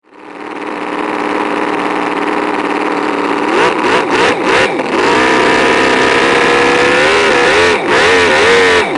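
A motor engine running steadily, then revving up and down from about three and a half seconds in, with a few short breaks.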